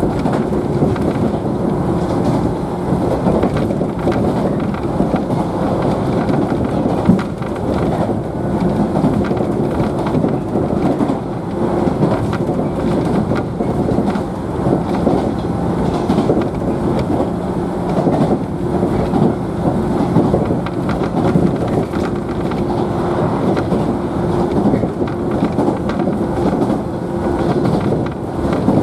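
Interior of a JNR 113 series electric multiple unit motor car running steadily between stations. Traction motor and gear hum holds steady pitch under continuous wheel and rail rumble, with occasional faint clicks from the track.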